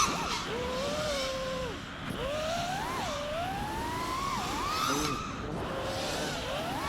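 FPV freestyle quadcopter's electric motors whining, the pitch sweeping up and down again and again as the throttle is worked.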